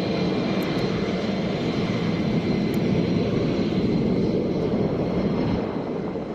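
Jet aircraft engine running with a steady rushing noise and a faint high whine, easing off slightly near the end.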